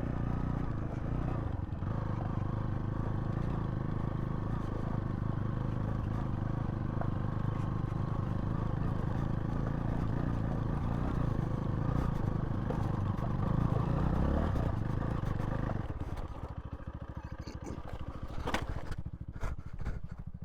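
Zontes T2 350 single-cylinder motorcycle engine running steadily, then dropping to a quieter, pulsing idle about sixteen seconds in. A few clattering knocks come near the end.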